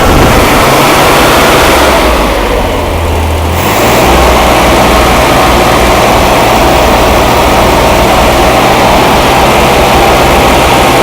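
Freshly rebuilt air-cooled Corvair flat-six engine running on its first start-up, loud and steady. The sound drops back briefly about two seconds in, then picks up again.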